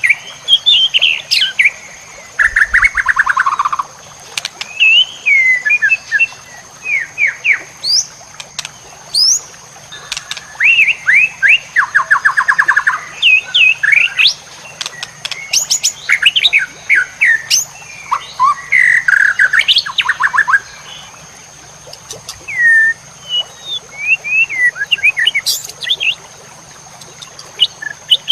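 White-rumped shama (murai batu) singing a long, varied song of whistles, slurred notes and fast rattling trills, phrase after phrase with short pauses between. A thin steady high-pitched tone runs underneath.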